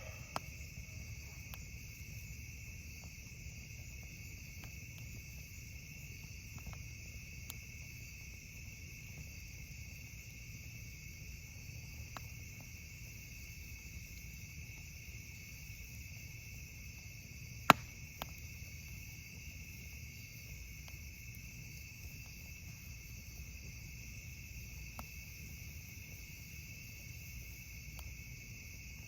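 Crickets chirring steadily at night, with sparse crackles and pops from a campfire, one sharp, loud pop a little past halfway.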